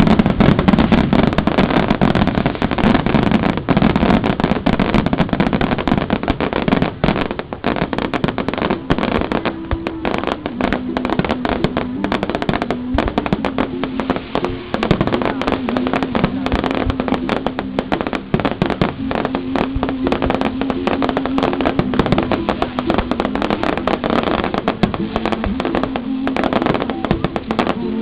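Fireworks display: aerial shells bursting in a dense, continuous run of bangs and crackling, loudest in the first few seconds, with a steady low tone running underneath from about ten seconds in.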